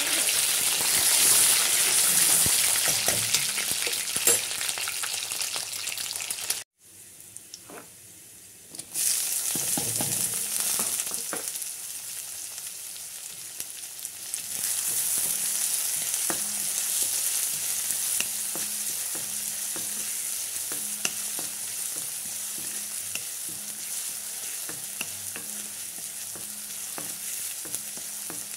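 Hot oil sizzling in a metal kadai, first around boiled eggs being turned, then around chopped onions and green chillies being stirred, with frequent clicks and scrapes of a steel spoon against the pan. The sound cuts out sharply about seven seconds in and comes back quieter for a couple of seconds before the sizzle picks up again.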